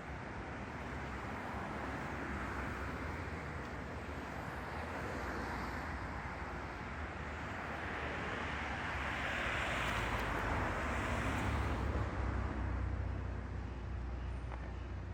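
Outdoor urban background noise: a steady hiss over a low rumble, swelling for a few seconds about two-thirds of the way in.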